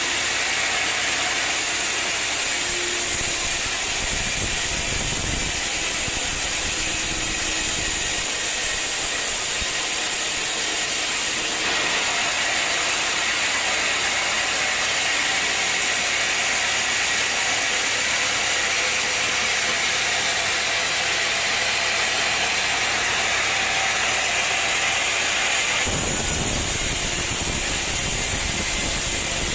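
Sawmill machinery running steadily: a mechanical drone with a strong hiss over it. The sound changes abruptly about twelve seconds in and again near the end.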